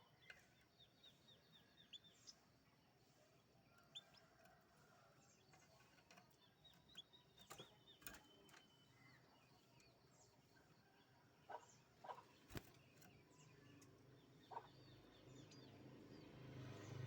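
Canary giving faint, short chirps in quick runs of quick downward notes, with scattered sharp clicks between them. A low hum builds near the end.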